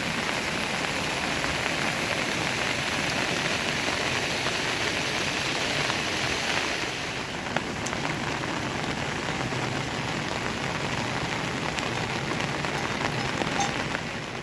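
Steady rain falling, an even hiss that becomes a little softer about halfway through.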